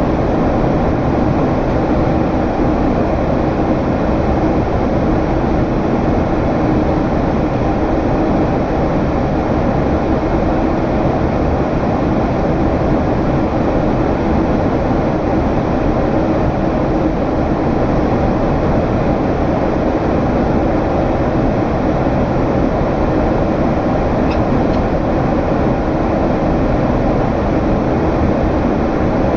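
Boeing 767's General Electric CF6 turbofan engines droning steadily in flight, heard from inside the cabin as an even rush of engine and airflow noise with a faint low hum running through it.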